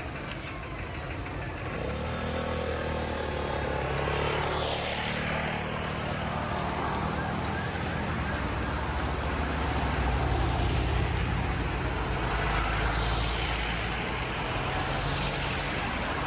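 City road traffic: a heavy vehicle's engine drones past, building from about two seconds in and loudest around the middle, over a steady wash of tyre and street noise.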